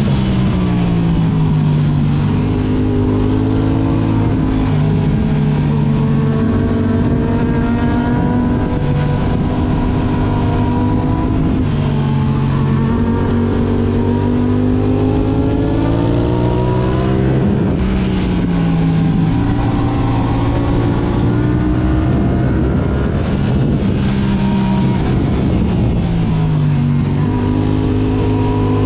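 Yamaha R6 inline-four with an Akrapovic exhaust running at speed, the engine note climbing and dropping again and again as the bike accelerates and slows, with a sharp drop in pitch about two-thirds of the way through.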